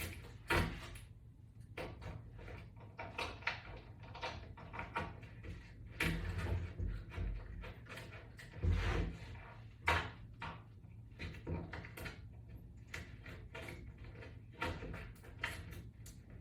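Toggle bolts being readied by hand: screws, washers and butterfly toggle wings clicking and rattling as they are fitted together. Irregular small clicks, with a few heavier knocks.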